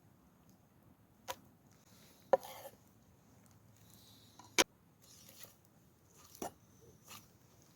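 A few sharp, irregular knocks and clicks with brief soft scraping between them, typical of hands working utensils and food during meal preparation.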